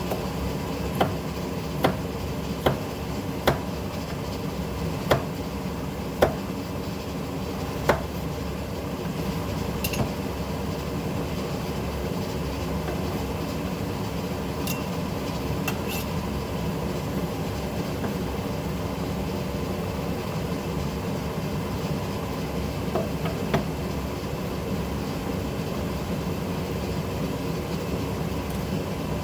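Kitchen utensils knocking sharply against cookware, about once a second for the first ten seconds and twice more later, over a steady low hum.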